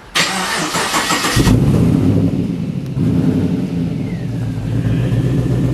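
VE HSV Clubsport R8's V8, fitted with an upgraded exhaust, cranked by the starter for about a second and catching, then settling into a steady idle: a first start on a freshly fitted battery.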